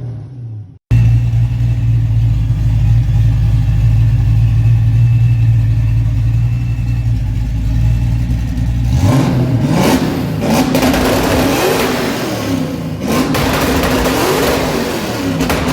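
Ford F100's 302 V8 running at a steady idle, then revved up and down several times from about nine seconds in.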